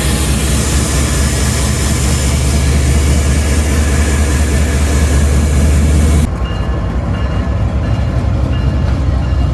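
Diesel locomotive running close by, loud, with a deep engine rumble and rail noise. About six seconds in it cuts abruptly to a quieter steady hum with faint high tones, as of a locomotive idling.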